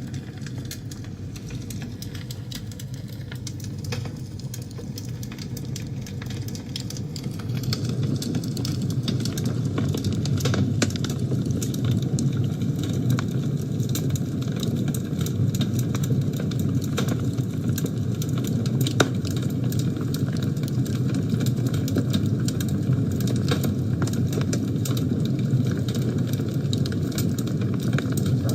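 Wood fire burning in a fireplace: a steady low rumble of flames with frequent sharp crackles and pops. The fire grows a little louder about seven seconds in and then holds steady.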